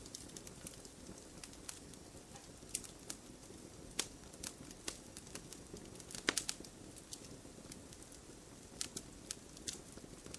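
Wood bonfire crackling: irregular sharp pops and snaps over a soft low hiss of burning, with a quick cluster of louder snaps a little past the middle.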